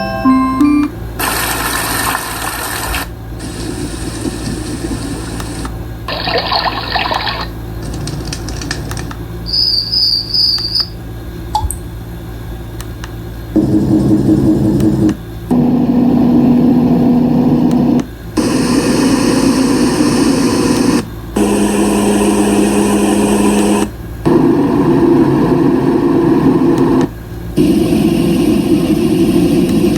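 Dreamegg D3 Pro white noise machine stepping through its sound presets, each playing for two to three seconds with a short break between. First comes hissing, water-like noise of varying brightness and a chirping, insect-like sound. From about halfway it switches to fan-like noises, each with a steady low hum.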